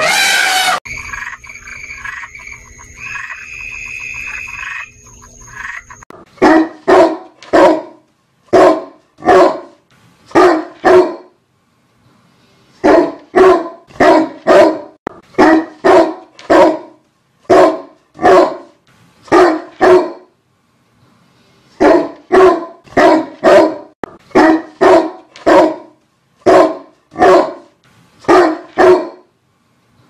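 A dog barking repeatedly, the barks coming in quick pairs and short runs with two brief pauses. It opens with the loud end of an elephant's trumpet call, followed by a few seconds of a quieter steady tone before the barking starts.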